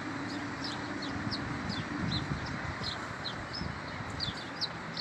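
Small birds chirping: short, high, quick chirps several times a second, over a steady low hum and city background noise.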